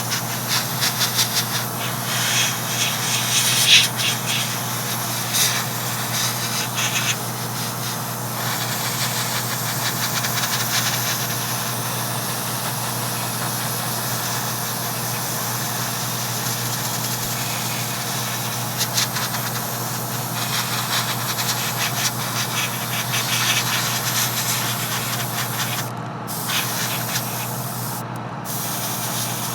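Airbrush compressor running with a steady hum, under the hiss of air and paint spraying from an airbrush. The hiss swells at times and cuts out briefly twice near the end as the trigger is released.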